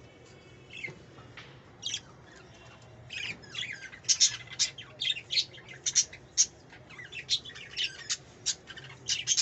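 Parrot calling: a few single high squawks, then from about three seconds in a rapid string of short, sharp squawks and chirps.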